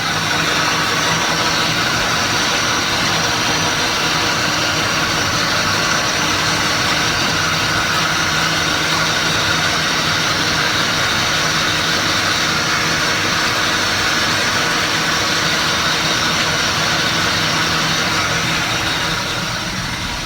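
Tractor engine running steadily while pulling a round baler through alfalfa, heard through the open cab windows as a loud, even mechanical noise that swells at the start and eases slightly near the end.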